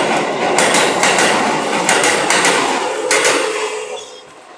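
Keikyu New 1000-series electric train rolling past while leaving the station, its wheels clacking over the rail joints in pairs. The rumble fades from about three seconds in as the last car goes by.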